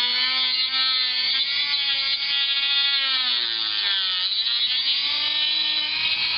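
Dremel rotary tool running at high speed with a steady whine, cutting into a laptop's plastic bottom case. Its pitch sags around four seconds in as the bit bites into the plastic, then recovers.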